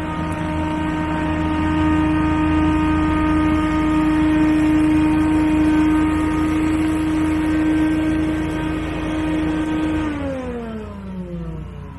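Gas engine of a large leaf-cleanup machine running steadily at a high, even pitch, then winding down: about ten seconds in, the pitch falls away over two seconds.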